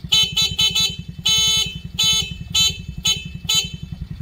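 Mini Jeep's horn honked repeatedly: four quick beeps, then a few longer honks. Under it the Jeep's small engine idles with a steady low putter.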